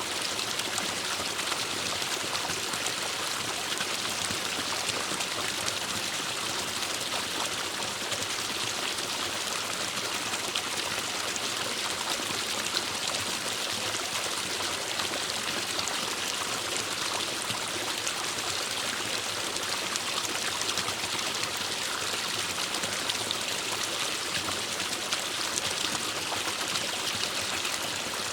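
Forest stream running steadily over rocks: an even rush of water with a fine trickling texture.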